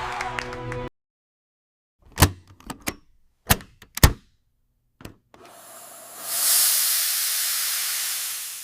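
Several short, sharp knocks, then a loud hiss that swells over about a second and slowly fades away.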